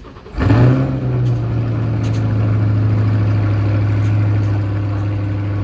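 Car engine starting suddenly and running: a brief flare in pitch just after it catches, then settling into a steady idle.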